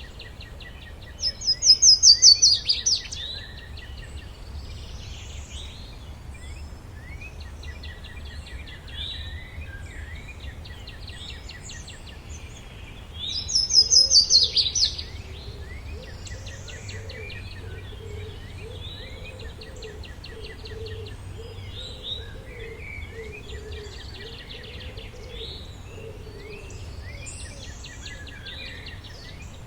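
Several forest birds chirping and calling. One bird sings a loud, fast trilled phrase twice, about a second and a half in and again about 13 seconds in, over a steady low rumble.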